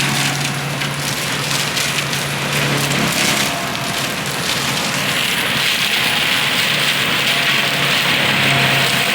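Tracked skid steer with a forestry mulching head running, its engine droning steadily while the spinning mulcher shreds brush and wood with constant crackling and splintering. A higher hiss builds from about halfway through.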